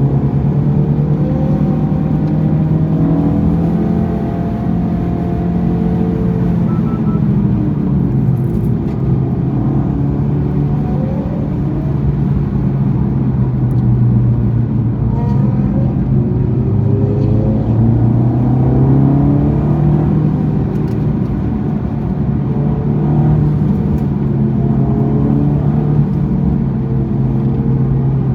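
Honda Civic Type R FL5 with a Mugen exhaust, its turbocharged 2.0-litre four-cylinder engine driven hard on track, the note repeatedly rising and falling in pitch.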